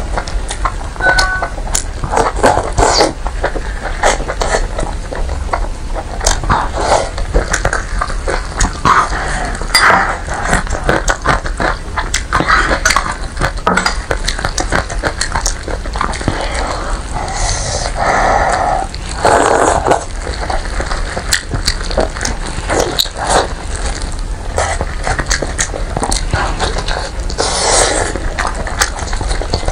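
Close-miked eating of a braised pig's trotter: wet chewing, biting and smacking, a steady run of short sticky clicks with louder squelches here and there.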